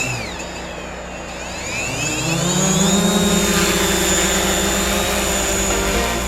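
Small quadcopter drone flying close by, its propellers humming with a high whine. The pitch rises about two seconds in as the motors speed up, then holds steady.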